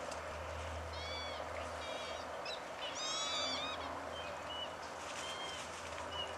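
Short bird calls that rise and fall in pitch, a few at a time, the loudest run of them about three seconds in, over a steady background hiss.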